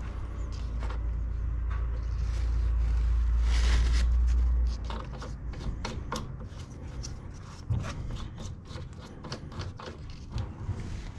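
A low rumble that cuts off suddenly after about four and a half seconds, then a run of sharp clicks, knocks and scrapes, as of lawn-mower parts being handled and worked by hand.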